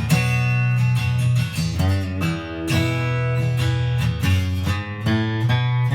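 Taylor 812ce acoustic guitar played: strummed and picked chords ringing out cleanly, with no audible fret buzz despite heavily worn frets.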